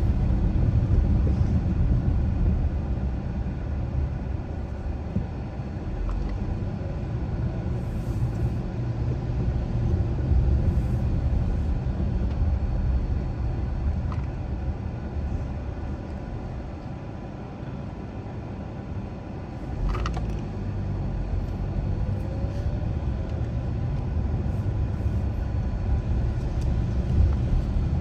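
Car driving on a road: steady low rumble of engine and tyres that eases off in the middle and builds again, with one sharp knock about twenty seconds in.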